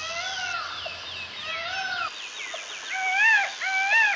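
Peacock (peafowl) calling: a series of loud, rising-then-falling honking calls, spaced about a second apart at first and coming quicker near the end.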